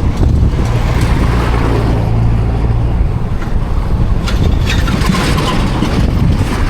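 Vehicle engine running steadily with wind rushing over the microphone while riding along a busy highway in traffic.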